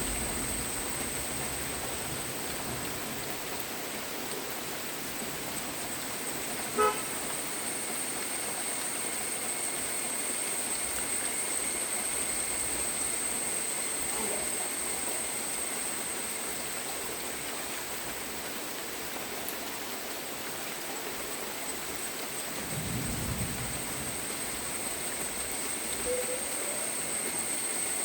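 Steady rain falling, an even hiss. A single short pitched toot cuts through about seven seconds in, and a low rumble swells briefly near the end.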